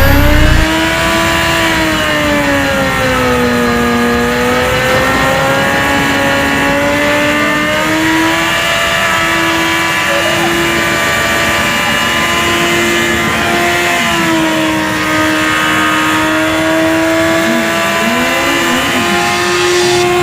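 An engine held at high, steady revs, its pitch drifting slowly up and down without dropping off.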